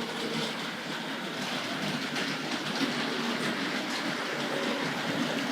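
Two vintage 00-gauge model locomotives running on the layout, one of them a Hornby Dublo GWR 0-6-2 tank engine on three-rail track: a steady whir of the small electric motors with the wheels rattling over the track.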